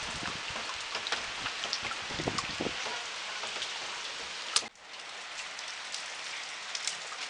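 Heavy rain hissing steadily on wet paving and the street, with many drops tapping close by. Low wind rumble on the microphone for about the first three seconds.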